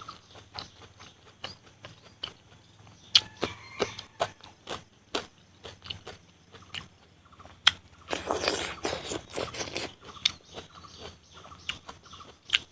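Close-miked eating of pork and bamboo shoots cooked with rice powder: scattered sharp mouth clicks and bites, with a denser stretch of crunching and chewing lasting about a second and a half, starting about eight seconds in.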